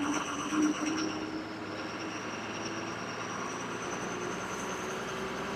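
Bus engine running, heard from inside the bus, with a thin steady high whine over it and a low engine tone that fades midway and comes back a little higher near the end.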